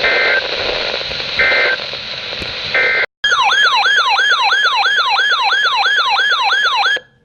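Three short bursts of EAS/SAME digital header data screech over weather-radio static, then an electronic siren-style alert tone sweeps downward over and over, about three times a second, before cutting off.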